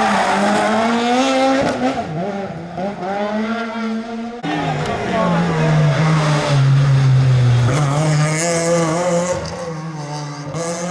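Rally car engine at full racing revs on a closed stage, its pitch rising and falling as the driver lifts, brakes and accelerates through the gears. About four seconds in the sound cuts abruptly to another stretch of hard-driven engine note.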